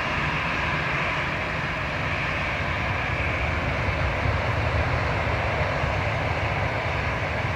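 Jet airliner engines running steadily: a low rumble with a higher hiss that holds level throughout.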